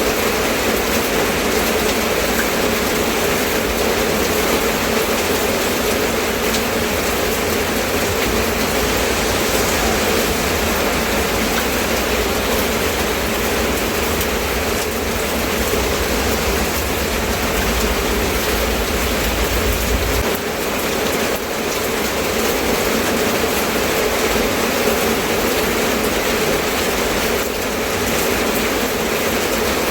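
Steady rain falling, an even hiss with no breaks. A low rumble underneath drops away about two-thirds of the way through.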